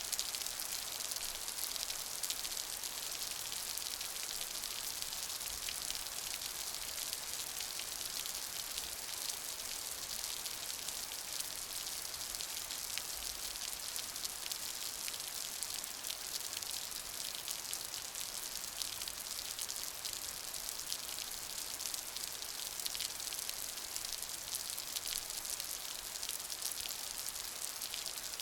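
Steady rain falling, a constant hiss flecked with the ticks of many small drops.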